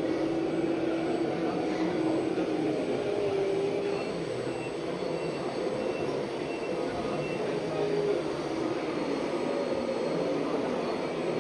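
RC scale model vehicle running steadily, a continuous mechanical drone from its motor and drivetrain with slight shifts in pitch.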